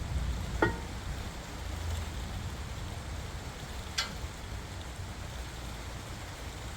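Two short sharp clicks of brake parts being handled, one about half a second in and a brighter one about four seconds in, over a low steady hum.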